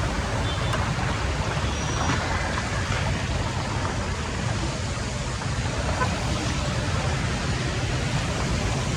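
Steady rush of floodwater flowing into a drain, an even noise with no breaks.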